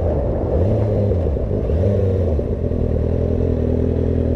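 Motorcycle engine running while riding, its pitch rising and falling twice in the first couple of seconds before holding steady, with loud wind noise over the microphone.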